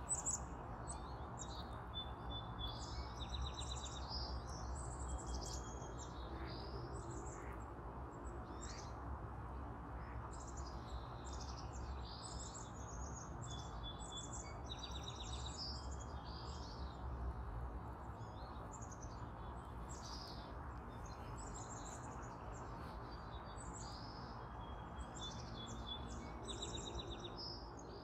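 Bird calls: repeated high chirps and short trills all through, in clusters that come back every several seconds, over a steady low background rumble.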